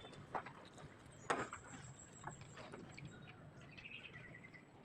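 Faint, scattered clicks and knocks, the loudest a little over a second in, with a short high chirp like a bird's near the end.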